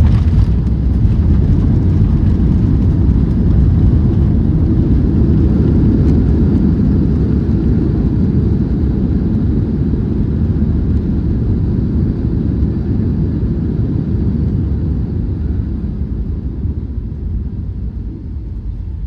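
Cabin noise of a Boeing 737-800 with CFM56-7B engines on its landing roll: a loud, steady low rumble of engines and runway, with a sharp knock at the very start. The rumble eases gradually over the last few seconds as the jet slows.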